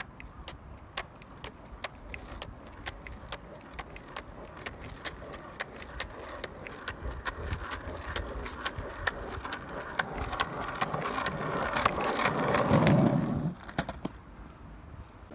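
Skateboard wheels rolling over pavement joints: regular clacks, about three a second and coming faster, over a rolling rumble that grows louder. The rumble peaks about twelve seconds in and drops off suddenly about a second and a half later.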